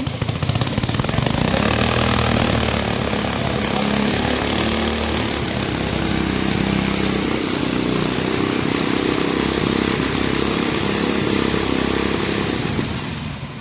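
Honda CD100 100cc single-cylinder four-stroke petrol engine running steadily on a test rig. Its sound eases off near the end.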